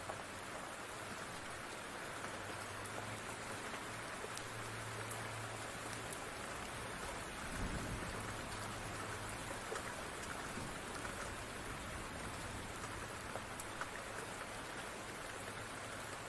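Steady rain falling, an even hiss with scattered sharp ticks and pops. A brief low rumble comes about halfway through.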